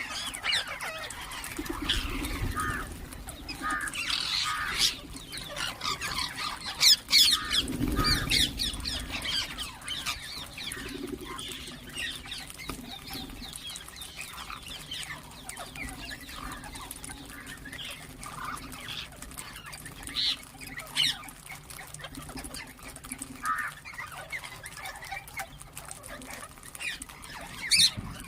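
Ringneck parrots calling: many short, sharp chirps and squawks, busiest about a quarter of the way in, with lower calls underneath at times.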